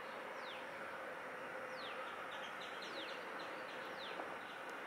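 Bird calling: four short high chirps, each sliding quickly downward in pitch, about one every second, with a few faint short ticks between them, over a steady outdoor hiss.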